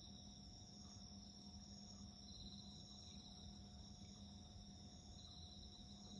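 Faint chorus of crickets singing steadily, several overlapping high trills, one of them swelling and fading every few seconds. A low steady hum runs underneath.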